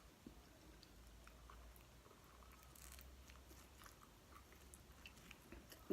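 Faint, close chewing of pizza: soft mouth sounds with small scattered crunchy clicks, just above near silence.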